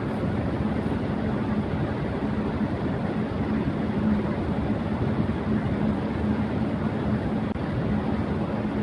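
Electric fan running at high speed: a steady rush of air with a constant low hum from the motor.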